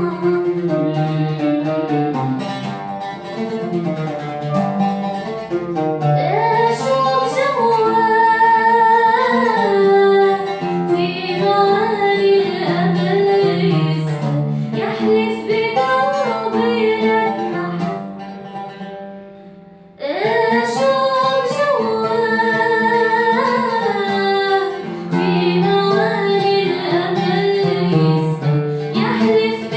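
Music: a woman singing an Arabic song over plucked guitar accompaniment. The music fades down toward about twenty seconds in, then cuts back in abruptly at full level.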